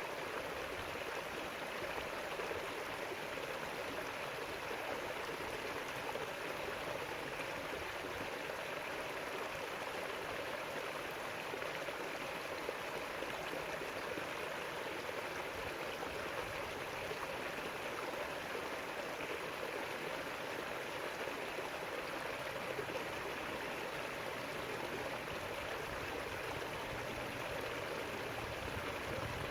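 A river flowing over rocks, a steady rushing and babbling of water.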